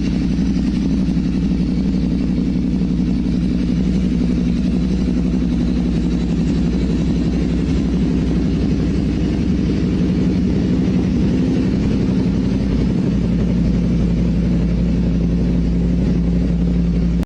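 Yamaha Raptor ATV's swapped-in 1300cc KTM V-twin engine running at a steady, even speed, with a deep low rumble.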